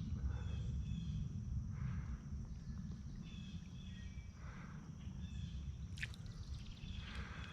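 Outdoor ambience: a steady low rumble with faint, high bird chirps several times, and one sharp click about six seconds in.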